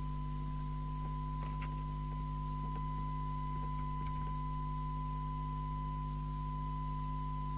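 Steady 1 kHz test tone with a faint overtone, over a low mains hum, with a few faint clicks. This is the demodulated test-signal audio used to align the Mustang CB3000 FM CB radio's receiver.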